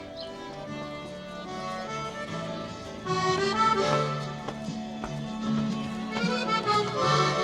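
Accordion music playing held notes and chords, growing louder about three seconds in.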